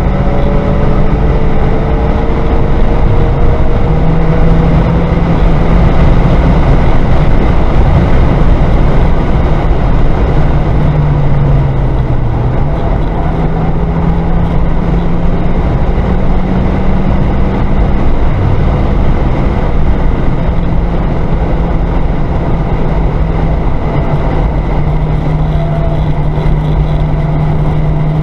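Car engine under hard driving on a racetrack, heard from inside the cabin with road and wind noise. Its pitch climbs in the first few seconds, then steps up and down with gear changes and corners.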